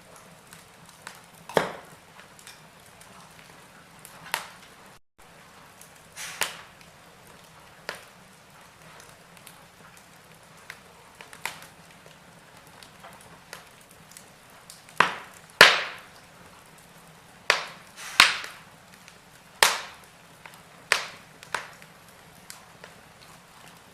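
Wood fire in a fireplace crackling: sharp, irregular pops and snaps every second or two over a faint steady hiss, with a cluster of louder pops about two thirds of the way through.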